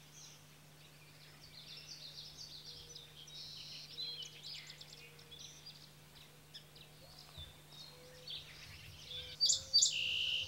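Birds chirping and trilling in a quiet outdoor ambience, with a louder run of chirps near the end. A faint steady low hum sits underneath.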